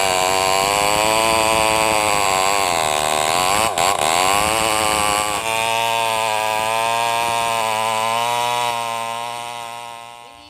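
New West NW588 small two-stroke chainsaw running at high revs through a cut, its pitch rising and falling with the load and dipping briefly about four seconds in. After about five seconds it runs steadier and a little quieter, then fades out near the end.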